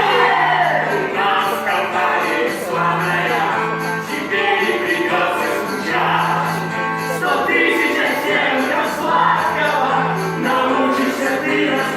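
A song sung by several voices over a musical backing track, with a low note held for about a second every few seconds.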